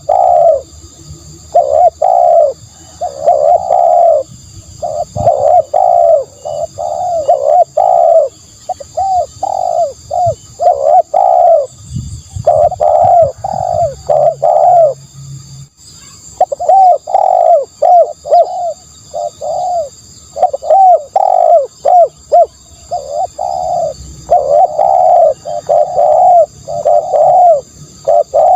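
Spotted dove cooing: runs of short, low coo notes repeated rapidly, with a brief pause about halfway through. This is the kind of call played as a decoy to lure doves.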